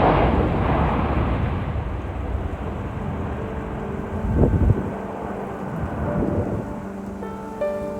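Low rumble of a Boeing 787-8's jet engines with wind buffeting the microphone, fading away over the first four or five seconds, with a short thump about four and a half seconds in. Music fades in from about three seconds and carries the end.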